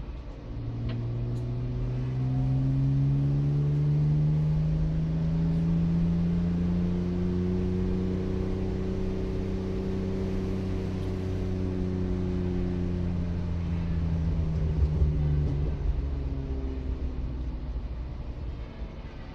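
BMW E36 320i's 2.0-litre 24-valve straight-six heard from inside the car, running at moderate revs. Its note climbs slowly over several seconds, holds, then eases back down near the end.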